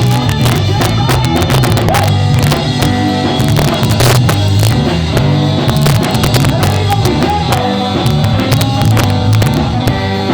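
Live ska band playing, with drums, bass and guitar, loud and rough as heard from the audience.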